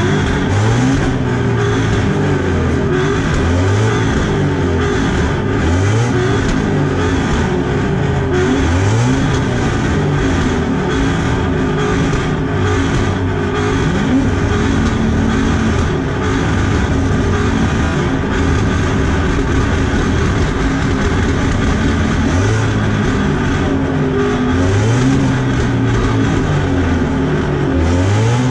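Two cars' engines revved over and over at the same time in an exhaust sound-off, each rev climbing and dropping every second or two.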